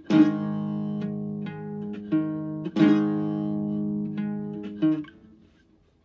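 Solo guitar playing: a chord strummed at the start and another about three seconds in, with single notes plucked between. The notes ring on, then fade out over the last second.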